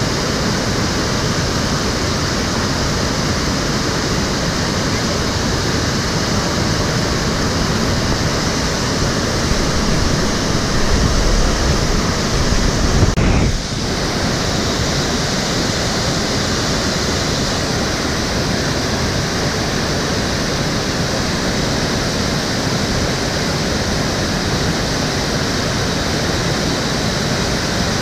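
Water of the Cheonggyecheon stream flowing, a steady rushing. Near the middle a low rumble swells for a couple of seconds and then drops away suddenly.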